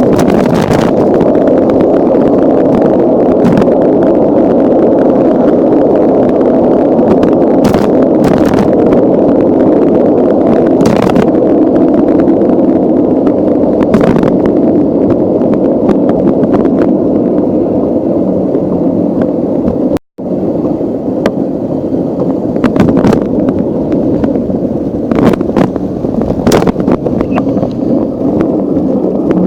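Loud, steady wind buffeting and rumble on a bicycle-mounted camera's microphone while riding, with scattered knocks and rattles from bumps in the road. The sound cuts out for a moment about two-thirds of the way through.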